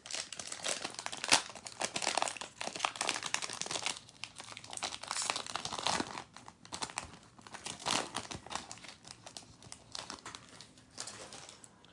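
Foil wrappers of basketball trading card packs being torn open and crinkled by hand, an irregular crackling that goes on with small pauses.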